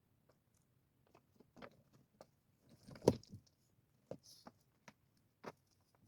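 Irregular light knocks and clicks, about a dozen, with one sharper knock about three seconds in.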